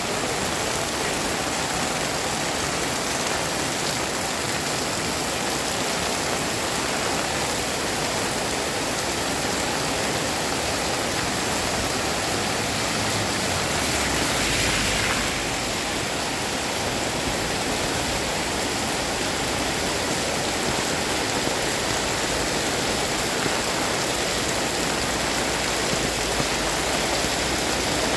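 Heavy rain pouring steadily, a dense even hiss, with a brief louder swell about halfway through.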